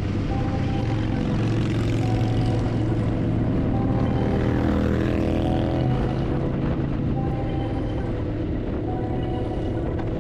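Motorcycle engine running under way with wind rush, its pitch shifting up and down around the middle.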